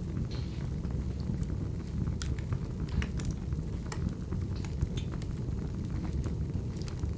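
Crackling wood fire: a steady low rumble with irregular sharp pops and snaps of burning logs.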